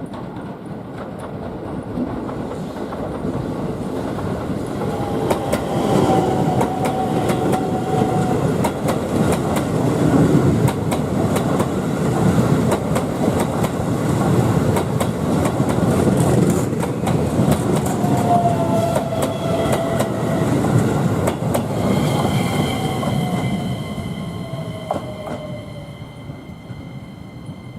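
Keisei 3050-series electric commuter train running past, its wheels clicking over the rail joints. The noise builds for several seconds, stays loud through the pass and fades away near the end, with a thin high tone as it recedes.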